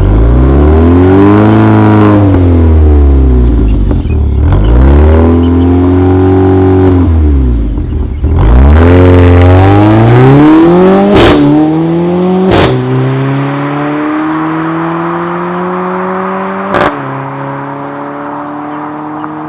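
Mercedes-AMG CLA45's turbocharged four-cylinder engine running through an iPE aftermarket exhaust, its revs rising and falling several times. About eleven seconds in come a few sharp cracks, and then the revs climb slowly and steadily.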